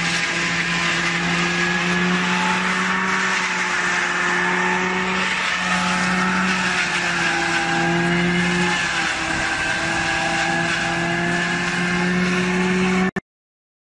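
Silage harvester running steadily under power, a loud machine hum that wavers a little in pitch over a rushing, grinding noise. It cuts off suddenly near the end.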